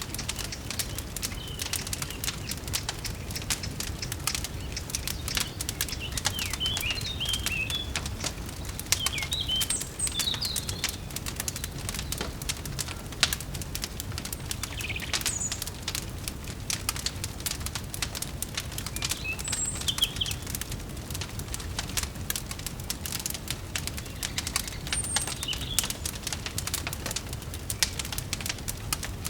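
Wood fire crackling, with frequent sharp pops over a low steady rumble. Small birds chirp now and then in short high bursts.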